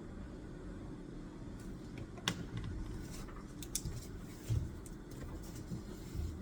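Desk study sounds: a pen or other small object clicking and tapping on the desk a few times, the sharpest about two seconds in, over a steady low rumble of background noise.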